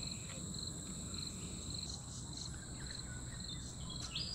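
Insects calling steadily in the background: a continuous high buzz, with a lower pulsing chirp repeating a few times a second.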